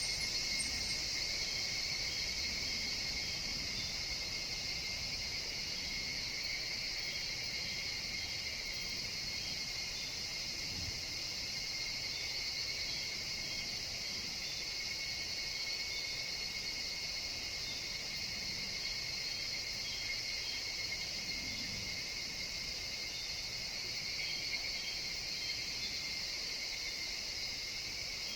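Chorus of higurashi evening cicadas in a forest: a steady, high-pitched insect din that never breaks, with fainter pulsing calls beneath it.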